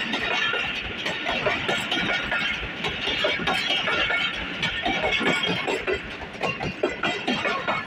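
Passenger train rolling past, its wheels clattering on the rails with a steady, even level throughout.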